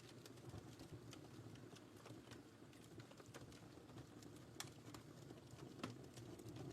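Wood fire crackling in a fireplace: a soft, steady low rustle of flames with irregular sharp snaps and pops, two of them louder, about four and a half and six seconds in.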